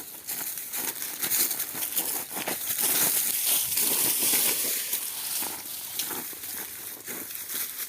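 Dry leaves, twigs and brush crunching and crackling steadily as someone pushes through dense, thorny forest undergrowth, with branches scraping past.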